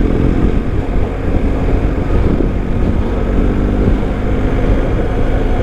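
BMW GS Adventure motorcycle engine running at a steady road speed, with wind noise on the microphone.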